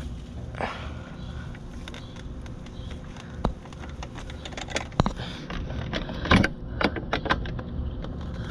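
Clicks and rattles of an air conditioner's pull-out disconnect block being handled and pushed back into its box, with a sharp click about five seconds in and a cluster of clicks a second or so later.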